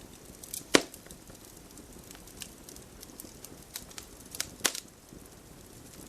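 Wood fire crackling: irregular sharp pops over a low steady hiss. The loudest pop comes under a second in, and another strong one a little over four and a half seconds in.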